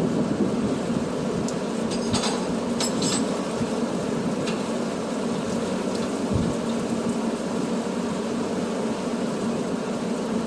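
Truck running steadily, with engine hum and road noise and a few light clicks and rattles about two to three seconds in.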